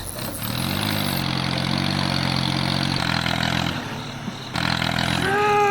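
A steady low engine hum that cuts out briefly and comes back for a moment. Near the end comes a short higher sound that swoops up and down in pitch.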